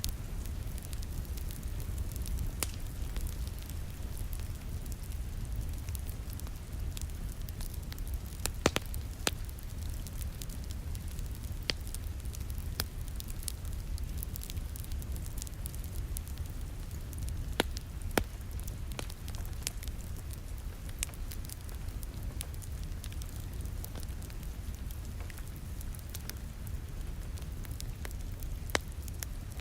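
Wood fire in a fireplace crackling, with scattered sharp pops over a steady low rumble of flame and a soft hiss of rain.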